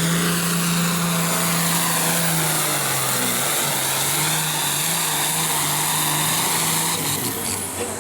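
Hot stock pulling tractor's turbocharged diesel engine running flat out under load during a pull, with a high whine over the steady engine note. The engine note dips slightly about three seconds in, and the sound falls off near the end.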